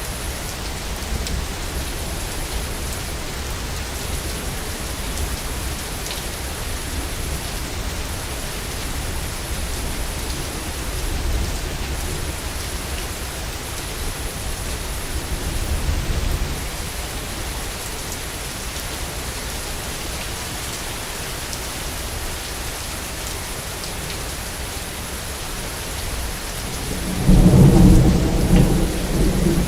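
Steady rain with distant low rolls of thunder, then a loud, close thunderclap rumbling in about 27 seconds in.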